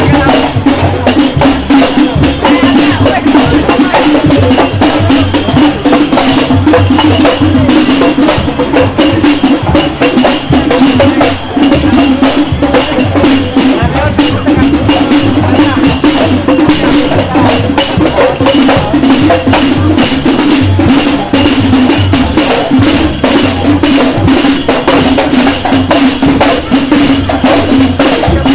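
Loud music played through a large sound system, with a steady low percussion beat and tambourine jingles running throughout.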